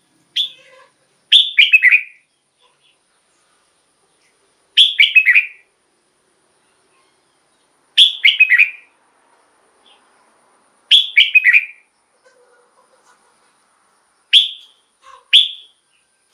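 Red-whiskered bulbul singing: about six short, bright phrases of a few quick notes each, with pauses of two to three seconds between them.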